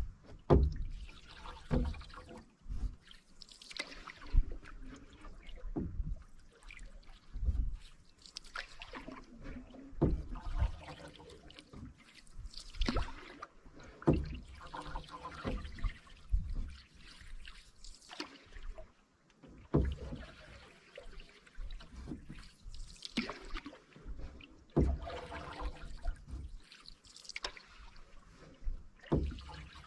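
Canoe paddle strokes in calm water, one every two to three seconds, with water trickling and dripping off the blade between strokes.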